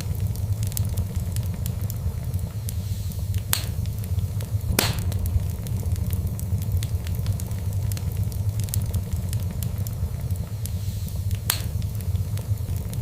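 Fire burning in a fireplace: a steady low rumble of flames under many small crackles, with three louder pops, the strongest about five seconds in.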